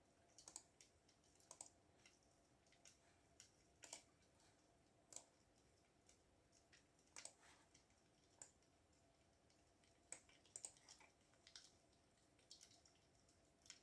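Faint computer keyboard typing: scattered single keystrokes and short clusters, irregular and spaced out with pauses between them.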